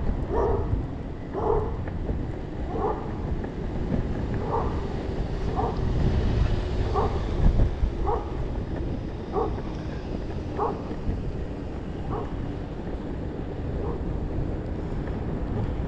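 A dog barking repeatedly, short single barks about once a second, over a steady low rumble of wind on the microphone.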